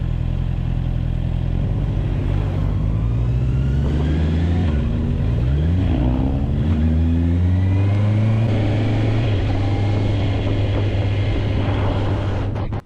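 Motorcycle engine running under way. The revs rise, drop back about halfway through and rise again, like accelerating through a gear change. The sound cuts off suddenly at the end.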